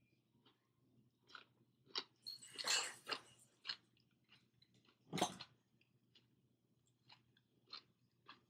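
Close-up sounds of a person chewing a mouthful of rice and fish: short wet mouth clicks scattered irregularly, with one louder sharp click about five seconds in.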